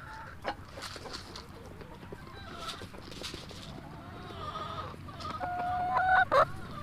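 Backyard chickens clucking and bawking, with louder drawn-out calls near the end.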